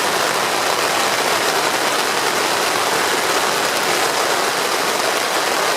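Heavy rain drumming steadily on a tent's fabric.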